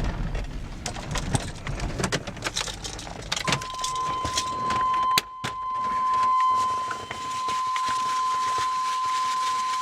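Keys jangling and clicking, with small knocks and rattles, then a steady high-pitched tone that starts about three and a half seconds in and holds without a break.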